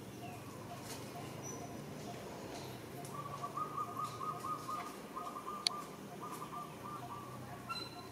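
Birds calling: one repeats a short low note about twice a second, and from about three seconds in another gives a rapid trill in several bouts. A single sharp click sounds near the middle.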